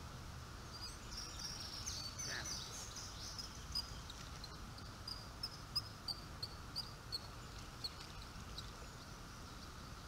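A small bird calling: a quick burst of high chirps, then a run of short, sharp high notes at about two a second, over steady background noise.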